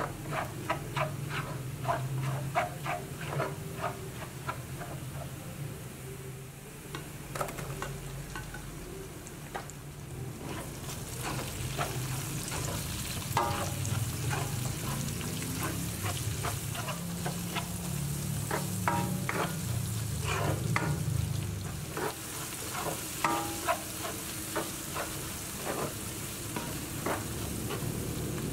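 Minced garlic and sliced onions sizzling in oil in a stainless steel honeycomb-textured wok, with a slotted spatula scraping and tapping the pan as they are stirred, many short strokes. The sizzle grows louder about a third of the way in.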